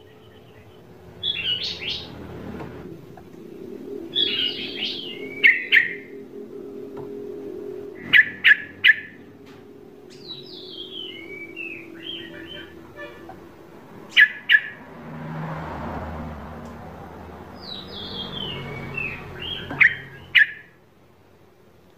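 A bird chirping and calling in short phrases, with several sharp, loud chirps in quick pairs, over a low steady hum; it stops a little before the end.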